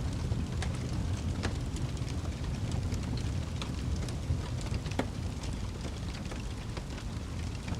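Wood fire burning in a fireplace: a steady low rumble of flames under irregular sharp crackles and pops, a louder pop about five seconds in.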